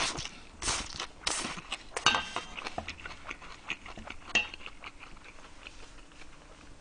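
Close-miked chewing of a large mouthful of bibimbap: irregular wet smacks and small clicks from the mouth, with a spoon clink as the spoon goes in.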